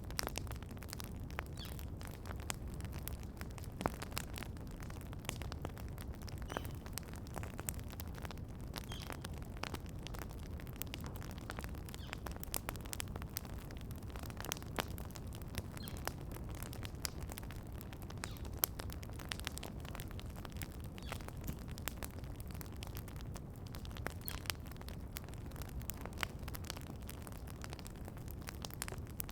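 Campfire burning with a steady low rumble and frequent sharp crackles and pops, with faint bird chirps now and then.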